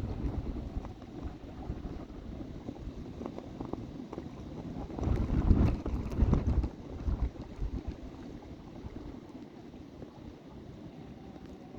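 Wind buffeting the microphone over a kayak moving on the water, with a stronger gust about halfway through.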